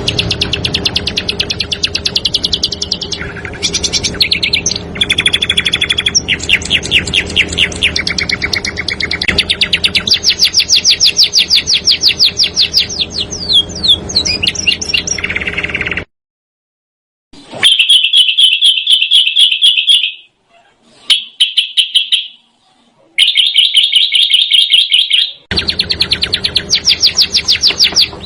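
Recorded songbird song used as masteran training audio: fast, tightly packed trills of repeated notes, with a steady hum beneath them for the first half. After about sixteen seconds it breaks off briefly and resumes as cleaner rapid trills in bursts of a couple of seconds.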